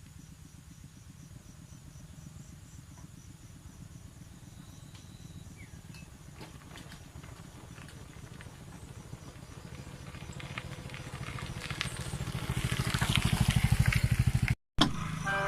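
Small motorcycle engine running with a fast, even pulse, growing steadily louder to a peak near the end, then cutting off suddenly.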